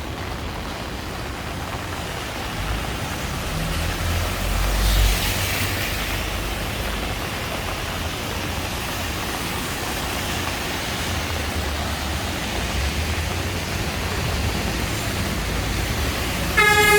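Steady traffic noise on a rain-wet street, with a vehicle hissing past about five seconds in. Near the end a vehicle horn starts a steady blast.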